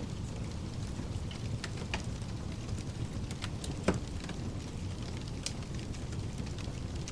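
Wood fire crackling over a steady bed of pink noise. Scattered pops and snaps come through, with one sharper pop about four seconds in.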